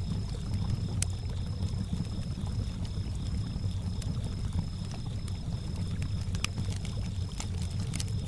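Lake water lapping with a low, steady sloshing, a campfire crackling in scattered sharp pops, and crickets chirping in a high, evenly pulsing trill.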